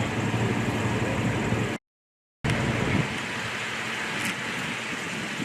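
Steady rumbling noise like a vehicle engine running, broken by a sudden half-second gap of total silence about two seconds in, after which a thinner steady noise resumes.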